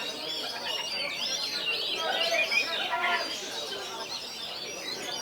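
Several oriental magpie-robins singing at once, a dense tangle of overlapping whistles, trills and chirps.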